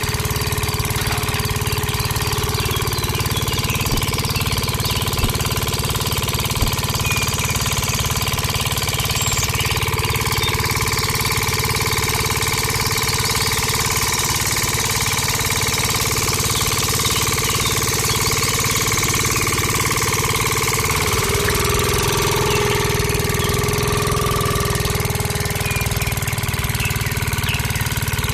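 A motor running steadily, with a shift in its hum about three-quarters of the way through.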